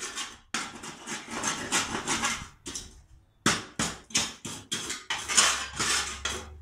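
Scraping caked grass clippings and mulch off the underside of a riding-mower deck: a long scrape, then a quick run of shorter scraping strokes.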